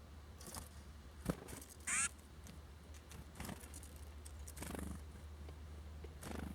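A songbird at a seed feeder gives one short, harsh call about two seconds in, just after a sharp tap; fainter taps and scrapes follow, over a steady low hum.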